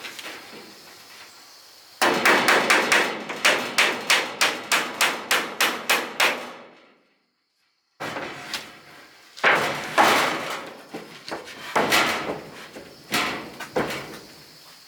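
Hammer striking wood: a quick run of about four blows a second that fades away, a second of dead silence, then slower, uneven blows.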